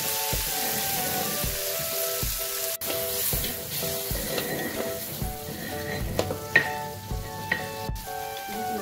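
Shrimp, chilies, shallots and galangal sizzling in hot oil in an aluminium wok, stirred with a spatula that scrapes and clicks against the pan now and then. Background music plays under the frying.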